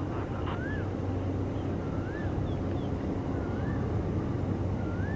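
Steady low rumble of a diesel locomotive engine running, with a bird repeating a short whistle that rises and falls, about once every second and a half.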